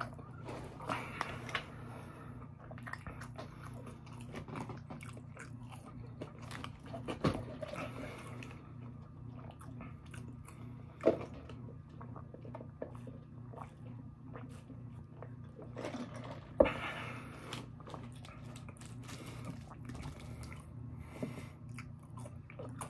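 Close-up chewing and biting of fast food (curly fries and a chicken sandwich), with wet mouth clicks and a few sharper smacks, over a steady low hum.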